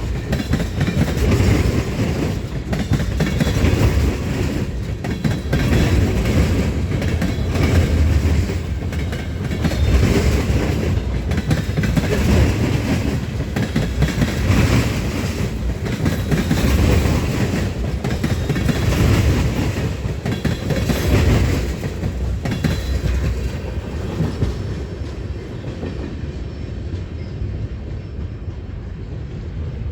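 Train cars rolling past, their wheels clacking over the rail joints in surges about every two seconds, easing off over the last several seconds.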